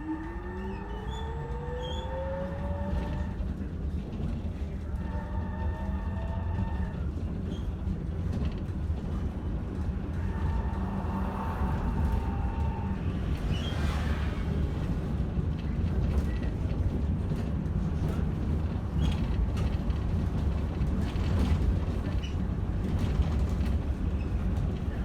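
Bogdan T90110 trolleybus pulling away, heard from inside: the electric traction drive whines, rising in pitch as it accelerates, and rises again briefly a few seconds later. After that there is a steady low running rumble that slowly grows louder as it picks up speed.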